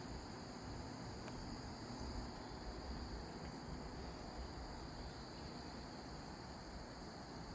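Steady chorus of singing insects, a continuous high trill, over a low background rumble.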